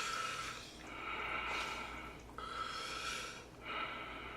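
A man breathing hard in and out through the mouth, about four long breaths with short gaps, sucking air to cool his mouth from the burn of extra-spicy noodles.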